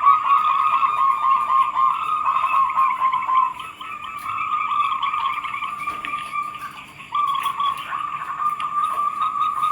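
Zebra doves (perkutut) cooing in rapid trilled phrases that overlap almost without a break, dipping briefly about four and seven seconds in.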